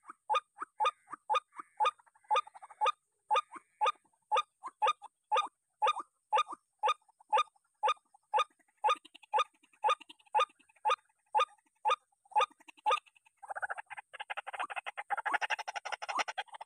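White-breasted waterhen calling: a short note repeated steadily about twice a second, breaking into a dense, rapid chattering about three-quarters of the way in.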